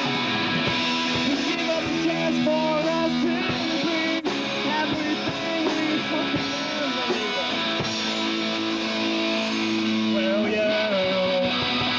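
A rock band playing through the PA during a sound check, with electric guitar prominent. There is a brief drop in the sound about four seconds in.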